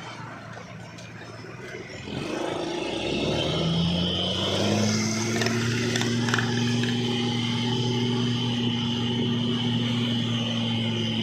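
Heavy container truck's diesel engine pulling up a steep grade: about two seconds in it picks up and rises in pitch, then holds a steady hard pull under load, with a high whine over it.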